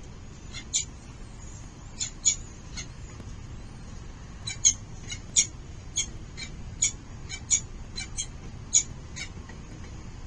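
Falcons calling: a rapid, irregular series of short, high-pitched calls, about fifteen in all, over a steady low background noise.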